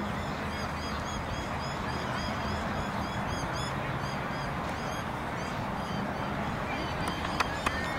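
Birds chirping over and over in short high calls, over a steady low background murmur, with a couple of sharp clicks near the end.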